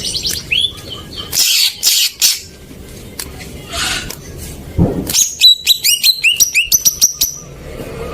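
Greater green leafbird (cucak ijo) singing a varied song: chirps and a few harsh, noisy notes, then from about halfway a run of quick, repeated notes that each dip in pitch.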